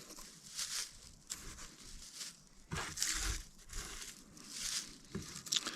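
Dry grass crinkling and rustling in the hands as it is crushed, torn and shaped into a tinder-bundle nest, in uneven bursts with a louder crunch about three seconds in and another near the end.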